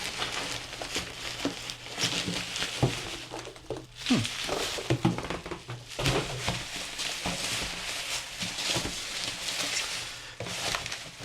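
Hail clattering steadily as a dense patter of small hits. About four seconds in, a few short sounds fall in pitch.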